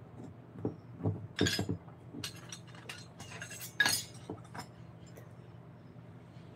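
Irregular clicks and clinks of small hard objects, like tools handled and set down during workshop work. Two louder clinks come about a second and a half in and just before four seconds in, over a faint steady hum.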